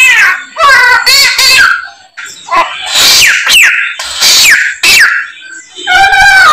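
A samyong songbird singing loudly, a run of varied phrases with quick falling and warbling notes separated by short pauses.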